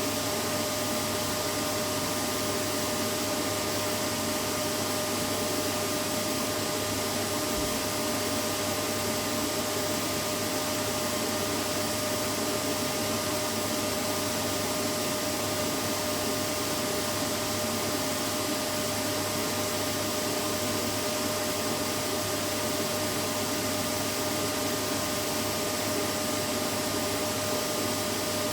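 Vacuum cleaner running steadily, a constant motor hum and rushing air with no change in pitch.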